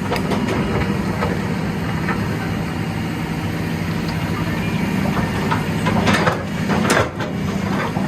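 Heavy diesel engine running steadily, with a few sharp knocks near the end.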